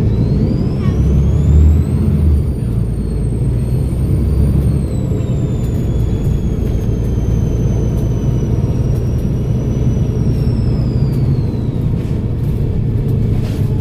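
Volvo B7RLE bus's turbocharged diesel engine running under load with its turbocharger whistling over a steady low engine drone. The whistle rises in pitch over the first two seconds, holds high, then slowly falls and fades out about twelve seconds in.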